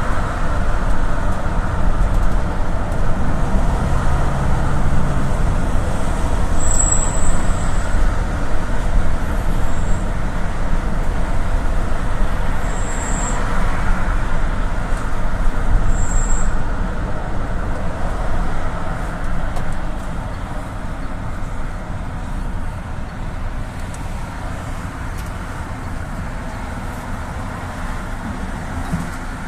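Engine and road noise heard from inside a GAZ Gazelle City minibus on the move, a steady low rumble that gets quieter over the last third. A few short high beeps sound partway through.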